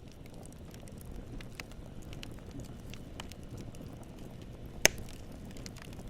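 Campfire burning: a steady low rumble of flames with scattered small crackles of wood, and one sharp, loud pop about five seconds in.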